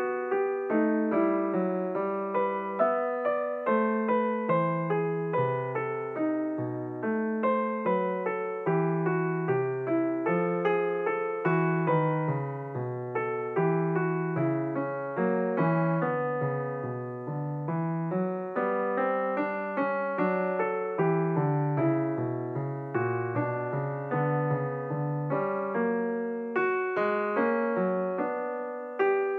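Background piano music: a continuous flow of gently struck notes and chords, each fading quickly.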